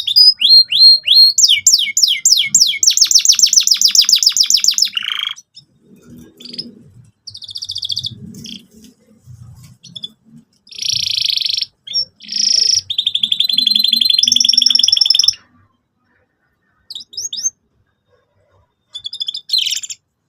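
Canary singing: fast trills of rapidly repeated high chirps for about five seconds, then shorter, varied phrases. The song stops about fifteen seconds in, with two brief bursts of chirps near the end.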